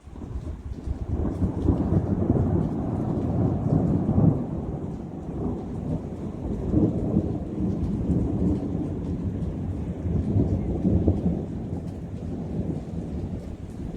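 A long roll of thunder: a deep rumble that starts suddenly, builds over the first couple of seconds, and rolls on with several swells.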